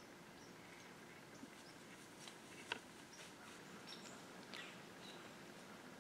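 Faint scattered bird chirps in quiet woodland, with one call sliding down in pitch about halfway through. A single sharp click a little under three seconds in.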